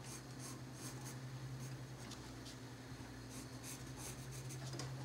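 Colored pencil stroking lightly across paper in many short, quick scratches, over a steady low hum.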